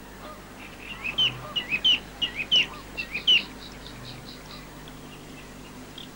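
Small songbird chirping: a quick run of short chirps starting about a second in and stopping after about three and a half seconds, over a faint steady hum.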